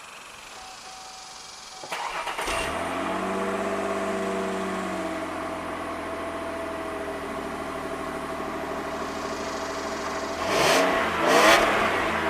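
Exhaust of a 2002 Mercury Cougar with the muffler deleted: the engine is cranked and starts about two seconds in, its speed drops and settles into idle, then it is revved twice near the end, the loudest part.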